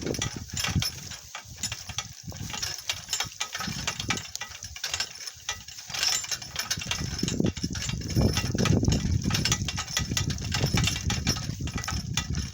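Donkey cart rattling and clattering as it jolts over rough, bumpy ground, with a steady run of knocks and a low rumble that grows louder about two-thirds of the way through.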